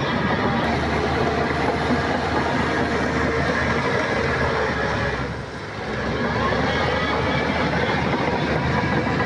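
Shantui crawler bulldozer working, its diesel engine running under load with the clatter of its steel tracks. The noise eases off briefly about five and a half seconds in, then picks up again.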